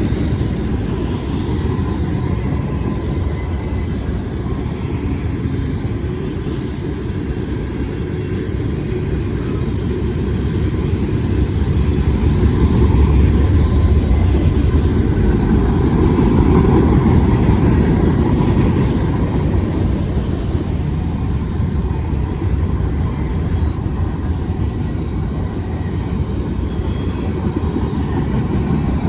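A train passing with a steady, heavy low rumble. It swells to its loudest around the middle and eases off slightly near the end.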